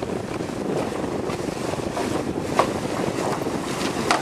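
Steady rushing noise of wind buffeting the microphone on a boat at sea, with two short sharp knocks, one a little past halfway and one near the end.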